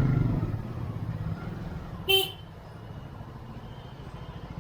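Street traffic with a steady low engine rumble, and one short vehicle horn toot about two seconds in, the loudest sound.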